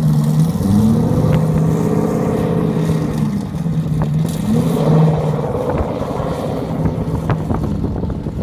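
Twin-turbo Ford GT engine running under load, its pitch dropping and climbing back up twice as the revs change. A few sharp pops near the end.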